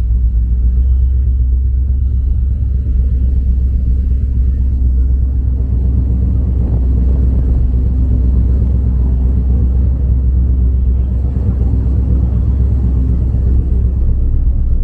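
A motor vehicle's engine running steadily with a deep, loud rumble.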